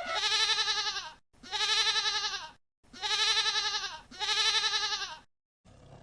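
Goat bleating four times in a row. Each call is high, lasts just over a second and has a fast quavering waver in its pitch.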